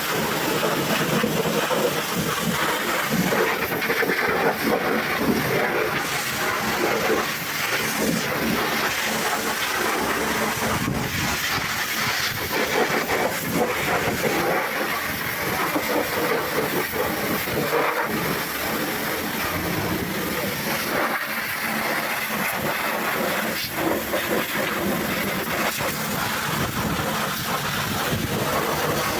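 High-pressure water spray from a pressure washer, hissing steadily as it is played over a truck engine.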